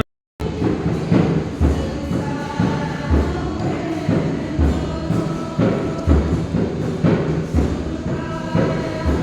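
Gospel-style music: voices singing together over a steady low drum beat of about one thud a second, starting after a brief silence.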